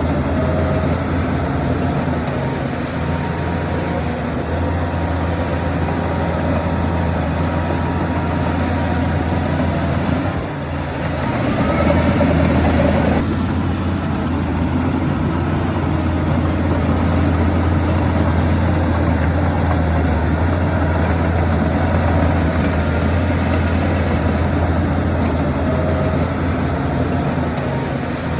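Heavy diesel earthmoving machinery running steadily with a deep engine hum. About eleven seconds in the sound dips briefly, then a louder rush of noise lasts a couple of seconds.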